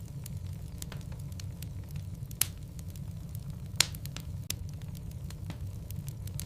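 Wood logs burning in a fireplace: a steady low rumble of flame with scattered crackles, and two sharp pops near the middle.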